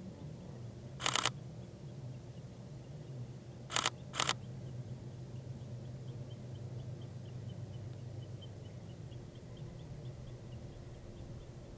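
Sony a7R III camera shutter firing in short bursts: one about a second in, then two quick bursts close together around four seconds in.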